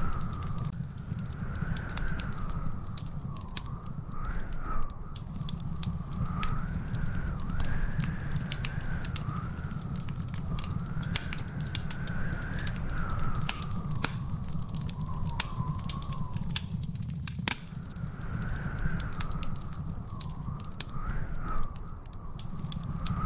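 Wood fire in a fireplace crackling, with many sharp pops over a steady low rumble. A thin whistling tone wavers slowly up and down throughout.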